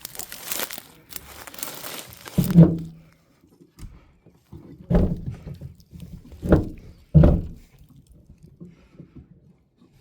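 Scratchy rustling, then four dull thunks a second or two apart, the first the loudest: a seized door on an old abandoned vehicle being tugged and knocked without coming open.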